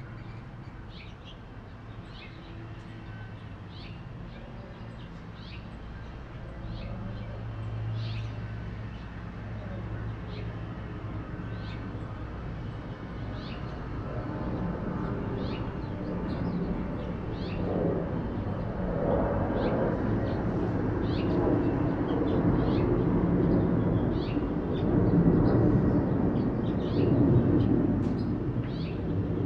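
Birds chirping in short, repeated calls over a low steady hum. From about halfway a low rumbling noise builds and grows steadily louder.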